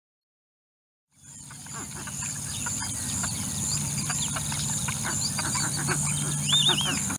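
Birds calling in a natural outdoor ambience that fades in about a second in: many short chirps and calls over a steady high-pitched hum, with a few arched whistled notes near the end.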